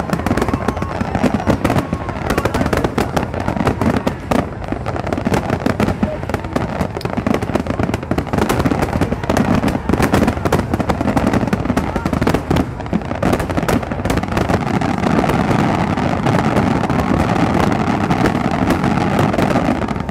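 Fireworks finale barrage: many aerial shells bursting at once, a dense run of rapid, overlapping bangs with no let-up.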